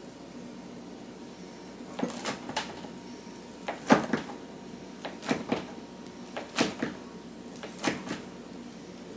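A series of light knocks and clicks of kitchen handling, in small clusters of two or three, the loudest about four seconds in, over a steady low hum.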